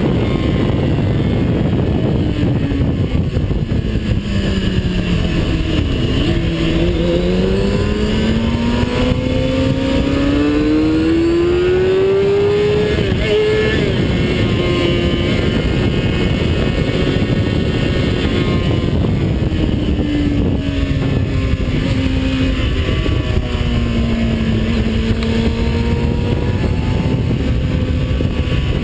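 Onboard sound of a vehicle at speed on a race track: the engine note drops, climbs steadily, eases off slowly and then starts to rise again, under heavy wind rush on the camera.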